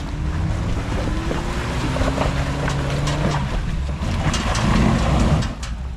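Jeep engine revving hard under load as it is driven at a hole, the pitch climbing for about three seconds. Near the end a louder rush of noise builds and then cuts off suddenly.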